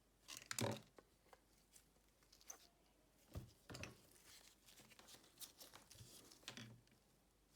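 Hands working on a smartphone at close range: scattered light taps, clicks and rustles, the loudest about half a second in.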